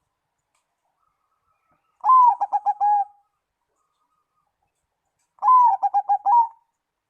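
Zebra dove (perkutut) singing: two cooing phrases about three seconds apart, each an opening note followed by a quick run of short, clipped coos.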